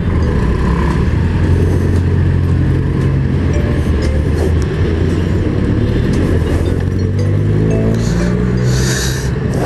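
Yamaha Mio i 125 scooter's single-cylinder engine running steadily while riding, its pitch rising for a couple of seconds near the end as it speeds up.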